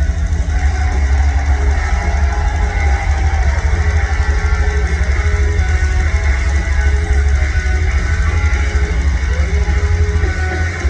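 Heavy metal band playing live in an arena: distorted electric guitars, bass guitar and drum kit, loud and continuous, with a heavy low end.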